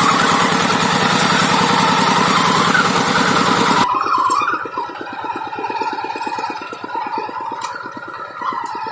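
Hand tractor's single-cylinder diesel engine running with a regular firing beat. It is loud for about the first four seconds, then drops suddenly to quieter, evenly pulsing running at roughly eight or nine beats a second.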